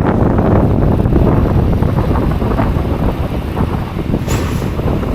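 Strong blizzard wind buffeting the microphone: a loud, low, gusting rush, with a brief higher hiss about four seconds in.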